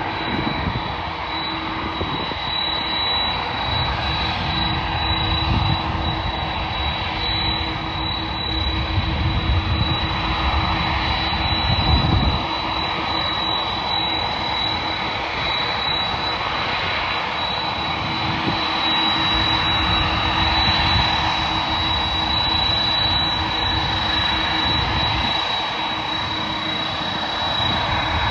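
Airbus A330-300 jet airliner's Rolls-Royce Trent 700 turbofans running for takeoff. A broad steady jet noise carries a constant high whine, with rumbling low swells that peak about 12 seconds in.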